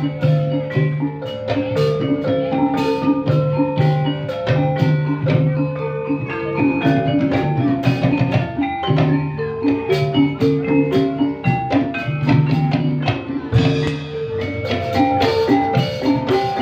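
Instrumental ensemble music in a Javanese ebeg style, with quick runs of mallet-struck keyed percussion over drums and low sustained tones.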